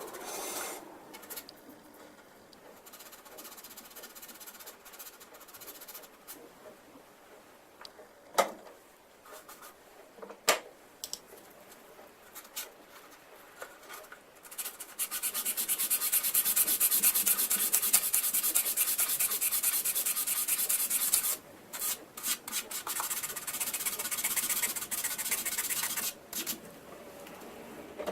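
Sandpaper rubbing on the plastic of a scale model aircraft kit in quick, short strokes to flatten a seam step. It runs steadily for several seconds past the middle, then comes in shorter spells, after a couple of sharp clicks earlier on.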